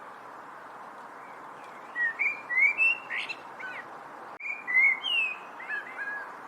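A songbird singing two short phrases of quick, gliding chirps, about two seconds in and again about four and a half seconds in, over a steady background hiss.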